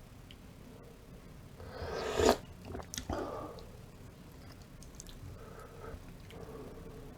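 Close-miked eating of beef radish soup and kimchi. A hiss builds to a sharp, loud peak about two seconds in, a click and a short rustle follow a second later, and softer chewing noises continue after that.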